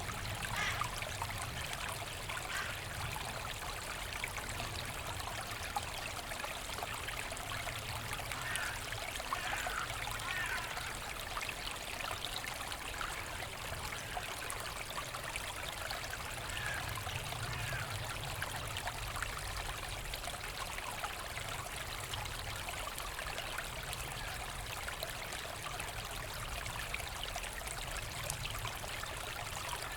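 Forest brook running steadily, a continuous trickling and babbling of water.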